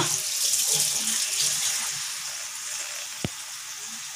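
Pork sizzling as it fries in a pan: a steady hiss that eases off over a few seconds. A single sharp click comes about three seconds in.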